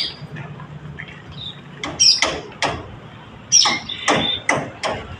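Gelatik batu (cinereous tit) calling: a run of sharp notes, each sweeping quickly down in pitch, in two bursts of about four, with a short high whistled note, over a faint low hum.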